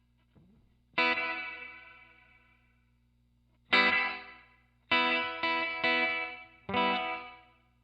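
Electric guitar chords strummed through the Alabs Cetus pedal's spring reverb setting into a guitar amp. A chord about a second in rings out and fades slowly. Another comes near four seconds, then three quick strums around five to six seconds and a last one near seven, each decaying in a long reverb tail over a low steady amp hum.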